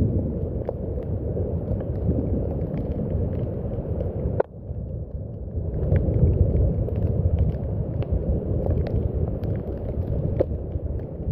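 Steady rain with a deep, low rumble and scattered sharp drip ticks. The sound drops away suddenly about four seconds in and swells back up over the next second or two.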